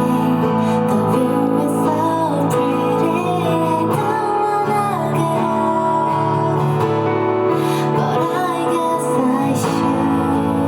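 Live music: a singer's voice over strummed acoustic guitar.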